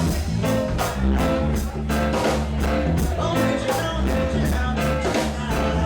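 Live reggae band playing, with a steady low bass line under an even, repeating drum beat and sustained guitar and keyboard chords.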